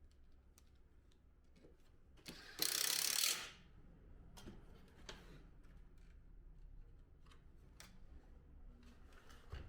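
Parts of an air-conditioner indoor unit being handled and fitted together, with scattered sharp clicks and one loud hiss lasting about a second, a couple of seconds in.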